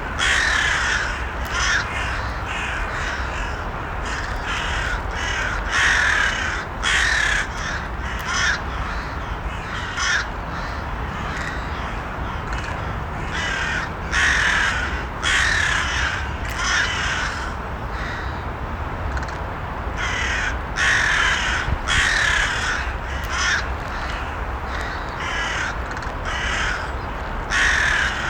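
Crows cawing again and again, harsh calls coming every second or two, over a steady low rumble.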